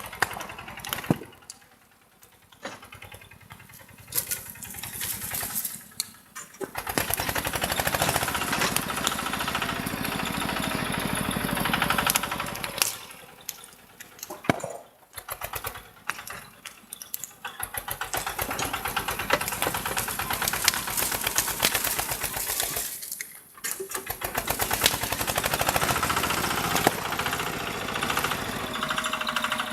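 Tractor engine running, rising three times to loud, fast chugging lasting several seconds each and falling back to a lower, uneven running between, with scattered knocks and clicks.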